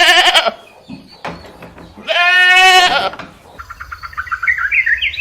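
Animal bleating: a short call at the start and a longer, steady one about two seconds in, followed by a run of short, rising chirps near the end.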